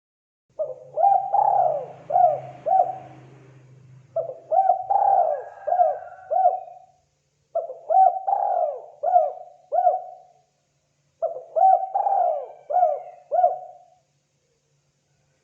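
Spotted dove (tekukur) cooing: four phrases of several hooked coos each, repeated about every three and a half seconds.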